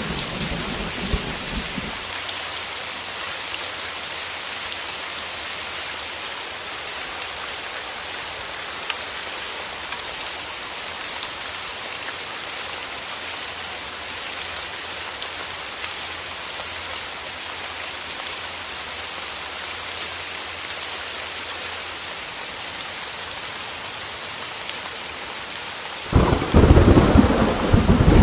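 Heavy rain falling with a steady hiss, and thunder. A low rumble dies away about two seconds in, and a sudden loud thunderclap breaks in near the end.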